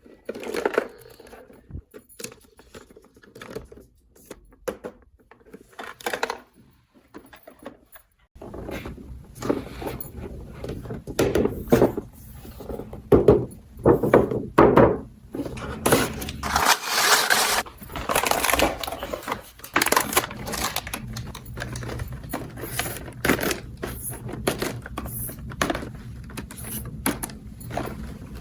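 Small plastic toy pieces clicking and clattering as they are handled and set down, in many short irregular knocks. A steady low background hum comes in about eight seconds in.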